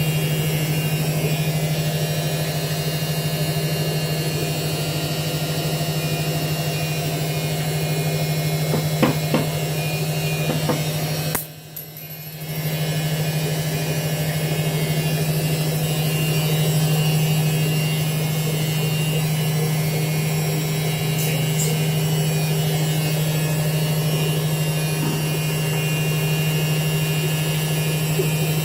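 Washing machine running with a steady hum. A few sharp knocks come about nine to ten seconds in, and the sound drops out for about a second near the middle before coming back.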